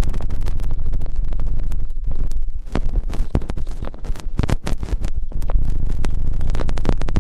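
Close-up ASMR ear-cleaning sounds on the microphone: dense, irregular crackling and scratching with a constant low rumble underneath.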